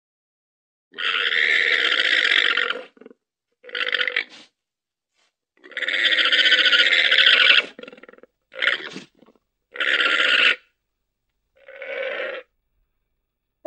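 Llama giving a series of six harsh, raspy calls of uneven length, the longest about two seconds, with silent gaps between them.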